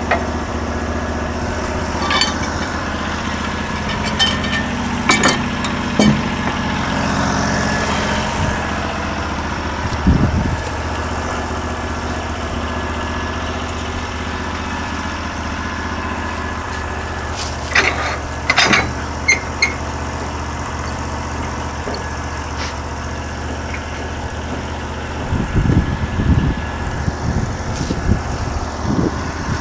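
Gasoline engine of a Norwood LM29 portable sawmill running steadily, with scattered sharp knocks and clatters over it, a cluster of them a little past halfway.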